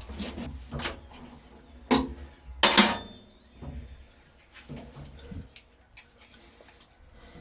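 Metal clinks and knocks, as of tools or steel parts being handled, with two sharp ringing clanks about two and three seconds in and fainter knocks after.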